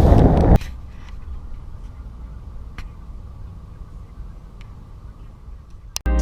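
Wind buffeting the microphone on a moving boat, cut off abruptly about half a second in, followed by a faint low steady rumble with a couple of soft ticks.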